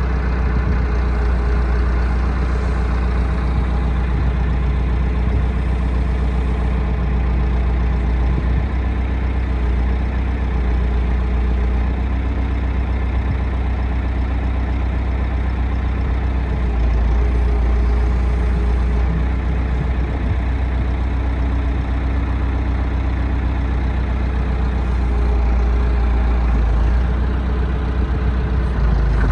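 A heavy engine running steadily at an unchanging speed, with a deep, even hum.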